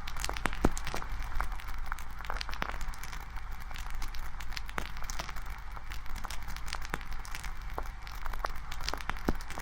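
Campfire crackling: irregular sharp pops and snaps of burning wood over a steady hiss of flames.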